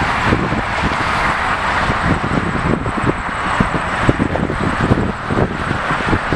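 Wind buffeting the microphone in irregular low gusts over a steady background roar.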